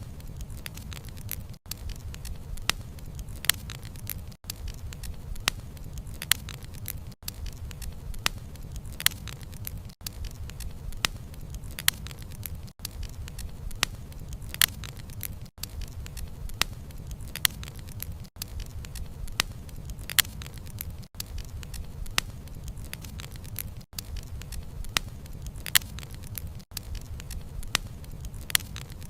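Wood fire burning: frequent sharp crackles and pops from the burning wood over a low, steady rumble. The sound briefly drops out about every three seconds.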